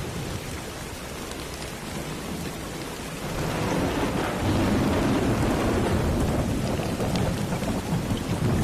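Steady rain falling, with thunder: about three seconds in, a low rumble swells up and keeps rolling under the rain.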